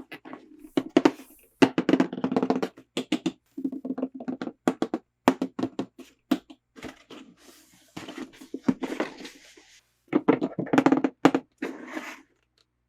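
Close-up handling of plastic toys and packaging: a run of irregular sharp clicks and taps mixed with rustling, in bursts with short pauses.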